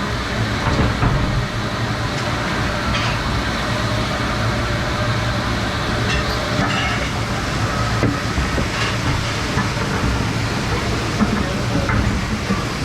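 Steady machinery noise of a restaurant dish room: a low hum under a constant hiss, with a few light clinks of dishware now and then.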